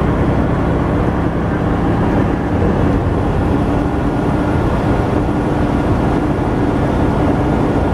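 Freightliner Inspiration Truck cruising at highway speed: steady engine and road noise.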